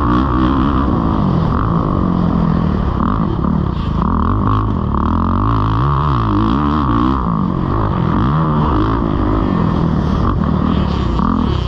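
Kawasaki KX450 motocross bike's four-stroke single-cylinder engine ridden hard, its pitch rising and falling again and again as the throttle is opened and closed.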